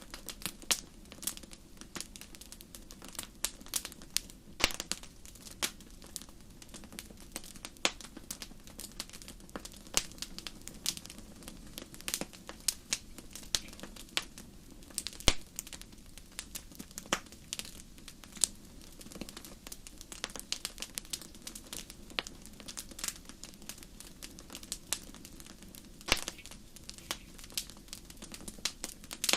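Wood fire burning in a fireplace, crackling with frequent irregular sharp pops and snaps over a low steady hiss of flame.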